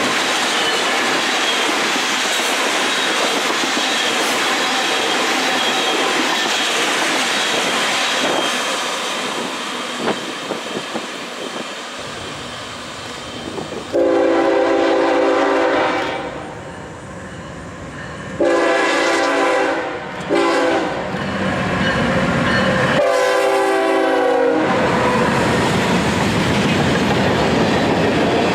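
Train running on the rails with steady wheel and rail noise, then a locomotive air horn sounds four chord blasts about halfway through: long, long, short, long, the standard grade-crossing signal. Rail noise of the moving train returns after the horn.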